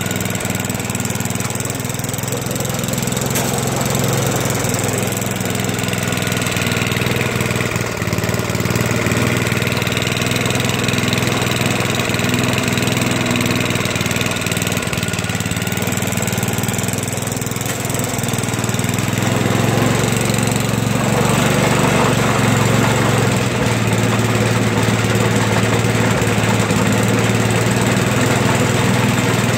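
Toro 421 snowblower engine running steadily, growing slightly louder and fuller about two-thirds of the way through.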